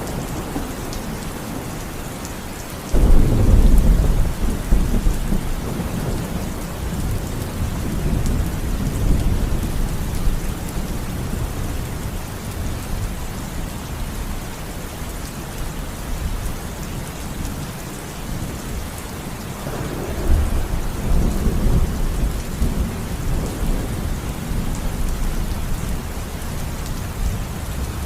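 Steady heavy rain with thunder. A sharp, loud clap of thunder breaks about three seconds in and rumbles away over several seconds, and a second, softer roll of thunder comes about two-thirds of the way through.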